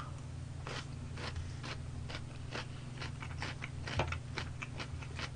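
Close-miked chewing of crunchy pickled radish cubes: a run of irregular short crunches over a steady low hum, with one louder click about four seconds in.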